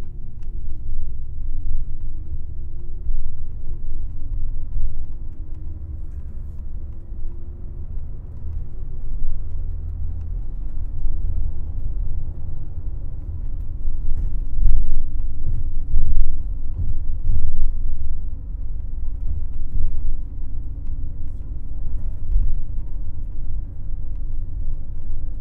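Interior of a moving airport coach bus: steady low road rumble with the engine's drone rising and falling in pitch as it changes speed. A few jolts and thumps from the road come about halfway through.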